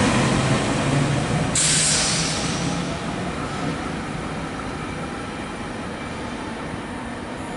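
SEPTA Regional Rail train running along the track, its rumble fading as it moves away. About a second and a half in, a sudden burst of hiss rises over it and dies away.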